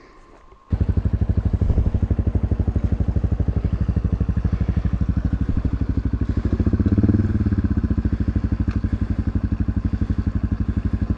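Single-cylinder four-stroke motorcycle engine running at a steady, even putter. It cuts in abruptly about a second in and gets a little fuller about seven seconds in.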